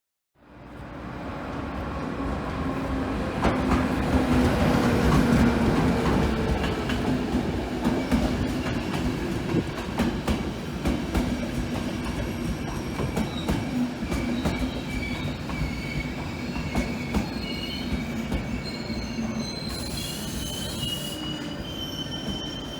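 A train rolling through a station, wheels clicking over rail joints and points, loudest a few seconds in. High wheel squeal comes in during the second half.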